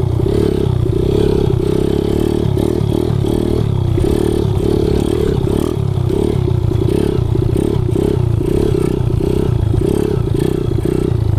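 Kawasaki KLX110 pit bike's single-cylinder four-stroke engine, bored out to 165 cc and breathing through an FMF exhaust, running under load while being ridden. Its level pulses up and down irregularly as the throttle comes on and off.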